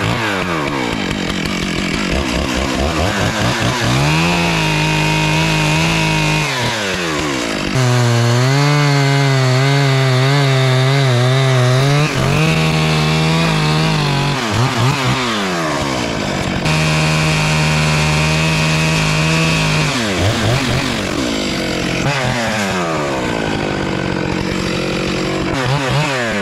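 Stihl MS 661 two-stroke chainsaw with a 42-inch bar, cutting knots off a heavy redwood log. It is run up to full throttle four or five times for a few seconds each and drops back to idle in between, with the pitch wavering under load in the longest run.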